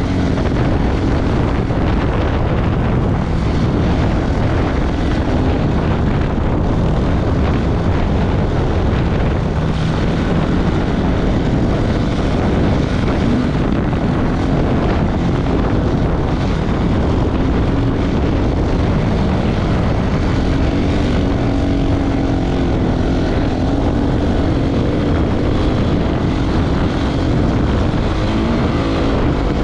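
Off-road motorcycle engine running continuously at speed, its pitch wandering up and down with the throttle.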